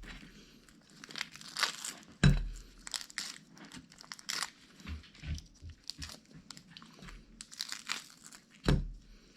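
Grilled mackerel being picked apart by hand, flesh pulled from the bones: irregular crinkling and tearing with small crunches, and two louder knocks, one about two seconds in and one near the end.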